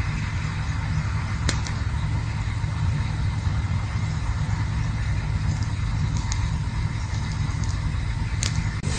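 Campfire burning with a steady low rumble and scattered wood crackles: a sharp pop about a second and a half in, another near the end, and fainter ticks between.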